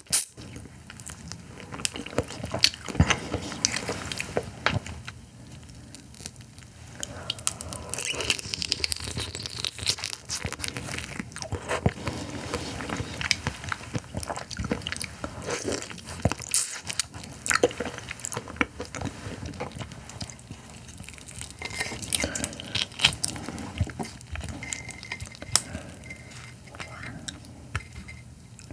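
Close-miked chewing and biting of raw carabinero shrimp, with many small wet clicks and crunches at an irregular pace.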